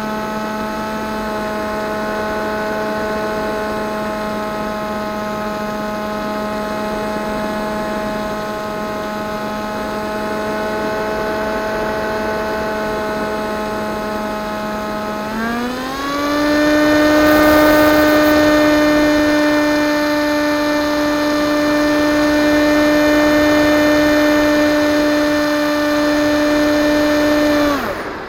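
Electric motor and propeller of an EasyStar 2 RC model plane running with a steady whine over a rush of air. About halfway through, the whine glides up to a higher pitch as the motor speeds up. It cuts off suddenly near the end.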